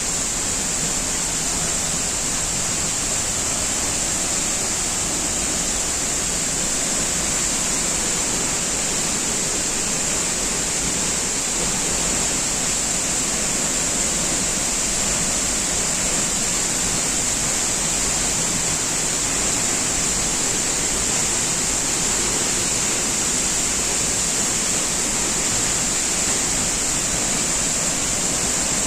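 Steady, unbroken rush of falling water from a waterfall, loud and even with a hissing top.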